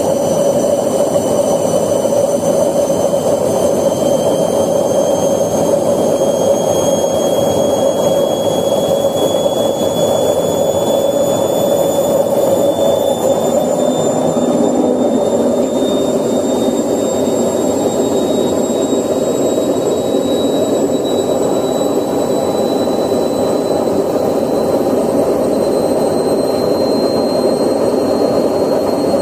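Candy washing machine drum spinning with a loud, steady grinding noise from its drum bearings, the sign of a worn bearing. A thin whine above it rises slowly in pitch as the drum speeds up.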